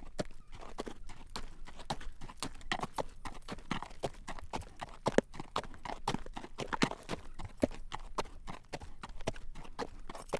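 Horse's hooves clip-clopping on a road at a walk as it draws a carriage: a steady run of sharp clacks, several a second.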